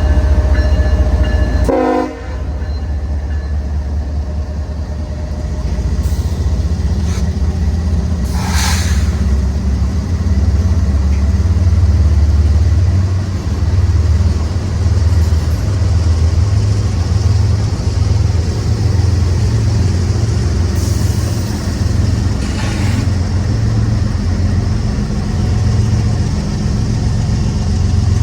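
Diesel locomotives of a CSX freight train pulling out: the air horn sounds and cuts off about two seconds in, then the engines run with a steady, loud low rumble.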